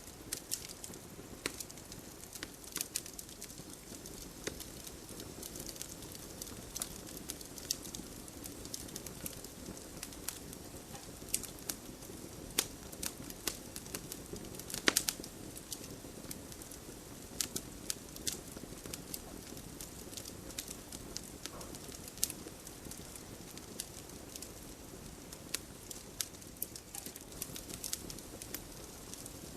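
Wood campfire crackling, with irregular sharp pops and snaps over a steady low rush of the flames; the loudest pop comes about halfway through.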